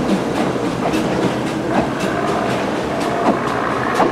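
Narrow-gauge steam train running along the line behind the locomotive Graf Schwerin-Löwitz: a steady rumble with irregular clicks of the wheels over the rail joints. A faint high tone holds for a second or two in the middle.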